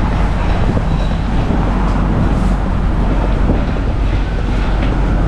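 New York City subway train running: a steady, loud rumble and rush of noise.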